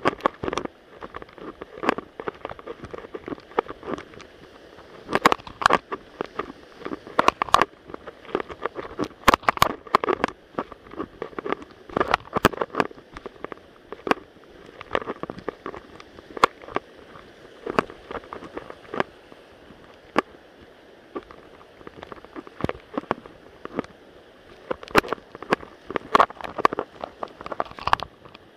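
Stream water running, broken by frequent irregular sharp clicks and knocks.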